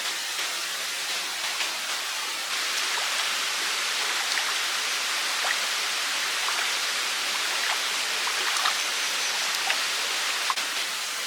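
Running stream water, a steady rushing splash with small scattered drips and plinks, getting a little louder about two and a half seconds in.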